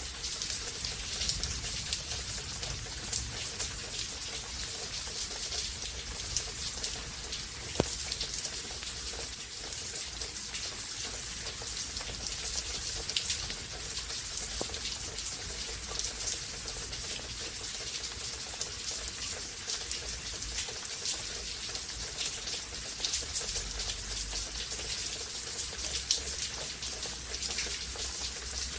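Steady rain falling, a dense hiss of drops with scattered louder individual drips and splashes.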